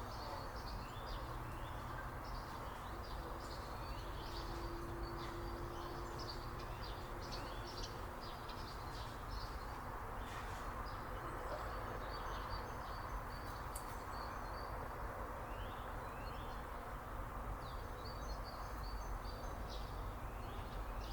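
Small birds chirping in quick, busy succession over a steady background hiss.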